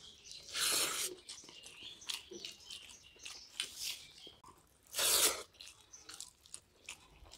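Close-up eating sounds of rice and fish curry eaten by hand: chewing, mouth smacks and small crunches, with two louder, longer noises about a second in and about five seconds in.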